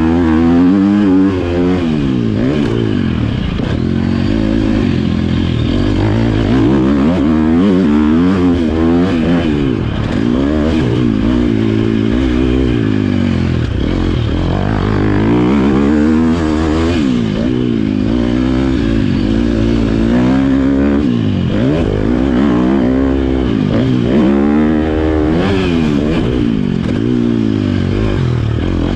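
Motocross bike engine revving up and down over and over as it is ridden round a dirt track, its pitch climbing and dropping every second or two with gear changes and throttle.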